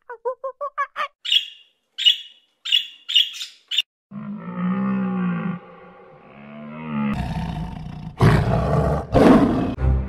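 A gibbon's call: a fast run of pitched hoots that breaks into several high, rising whoops. Then a red deer stag bellows, with deep drawn-out roars that grow louder and rougher near the end.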